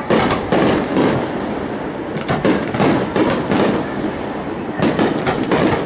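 Aerial fireworks bursting in rapid volleys of sharp crackling pops over a steady rumble. Dense clusters come at the start, from about two to three and a half seconds in, and again near the end.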